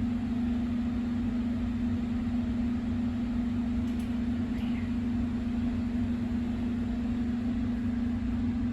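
Steady mechanical hum with a low rumble underneath, unchanging throughout, like a ventilation unit or fan running.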